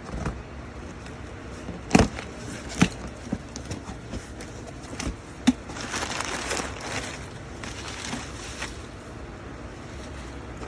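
Handling and opening a shipping package: a few sharp knocks, with a stretch of rustling packing material about six seconds in.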